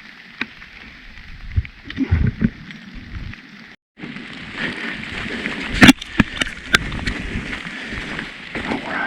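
Rain falling on the woods, with footsteps and scuffs in wet leaves and mud and a few sharp knocks, the loudest a little before six seconds in. The sound cuts out for a moment just before four seconds in.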